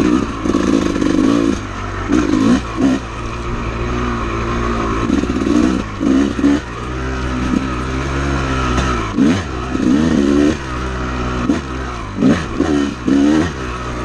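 Honda CR250 two-stroke dirt bike engine under way, its revs rising and falling again and again with repeated bursts of throttle.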